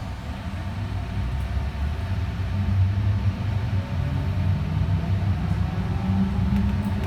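Alstom Citadis Spirit light-rail train heard from inside the car, pulling away from a station: a low rumble that grows steadily louder, with the traction-motor whine rising in pitch as the train gathers speed.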